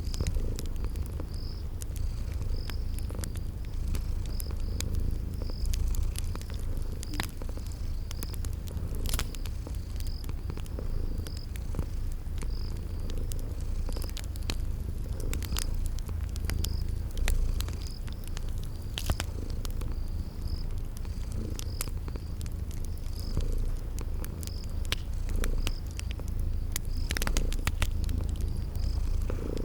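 A cat purring in a steady low rumble, with the sharp pops of a wood fire crackling scattered throughout and a cricket chirping at an even pace, about once a second.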